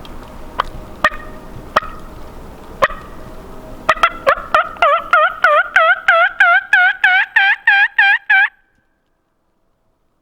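Hen turkey calls made on a hunter's turkey call: a few short, sharp clucks and cutts, then a run of about a dozen evenly paced yelps that climb slightly in pitch, cut off abruptly near the end. The calling is meant to make a roosted gobbler answer.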